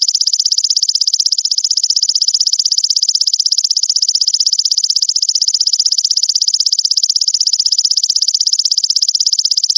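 Grasshopper (belalang) stridulating: a steady, high-pitched, rapidly pulsing trill that runs unbroken, used as a masteran call for training songbirds.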